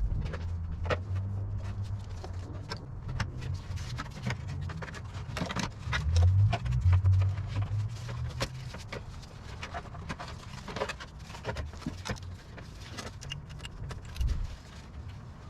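Hand tools clinking and knocking on metal in irregular, scattered taps, over a low rumble that swells twice.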